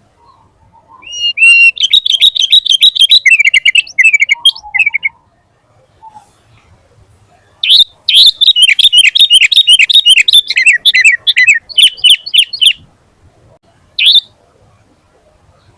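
Sooty-headed bulbul (kutilang) singing: two long bursts of rapid, high notes, the first about four seconds and the second about five, then a single short call near the end.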